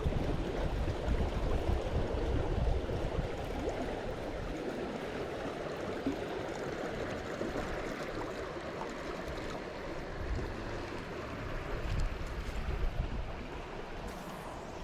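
Creek water rushing steadily past a kayak, with wind gusting on the microphone, strongest near the start and again near the end.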